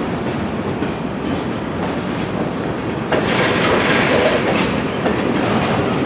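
Railroad freight cars rolling along yard track, steel wheels clicking over rail joints. A faint thin high squeal of wheel flanges comes about two seconds in, and the rolling grows louder about three seconds in.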